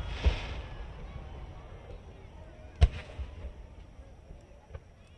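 Fireworks shells bursting overhead: the rumble of a burst just before fades away, then a sharp bang about three seconds in followed by a brief crackle, and a smaller pop near the end.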